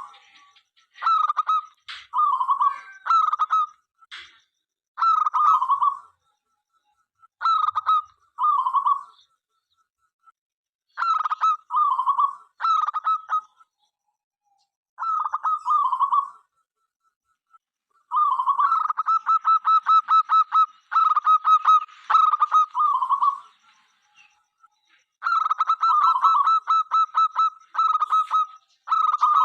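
Zebra dove (local perkutut) cooing in repeated phrases of quick staccato notes around a mid-pitched coo, with short pauses between phrases; longer runs of rapid notes come past the middle and again near the end.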